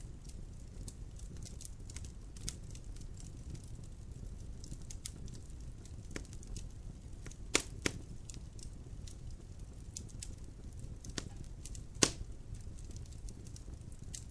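Wood fire crackling in a fireplace: a steady low rumble of the flames with frequent small crackles and three louder pops, two close together about halfway through and the loudest near the end.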